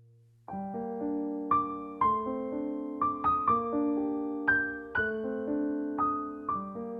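Background piano music, starting about half a second in: a gentle melody of struck notes, each ringing and fading, over sustained lower chords.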